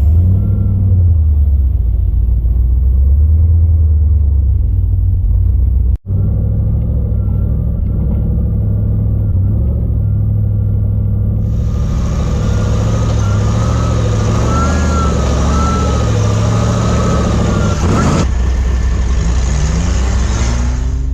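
Off-road buggy engine running with a steady low rumble, broken by sudden cuts between shots. From about halfway in, a broad hiss is added on top.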